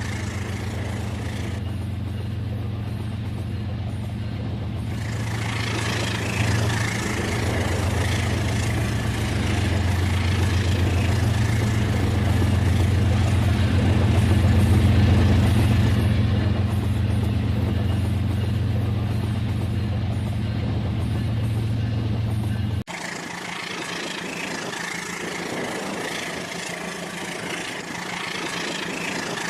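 Battery-powered Rail King toy train running on its track: a steady motor hum with running noise. About 23 seconds in the sound changes abruptly, the low hum drops away and a lighter, thinner running sound continues.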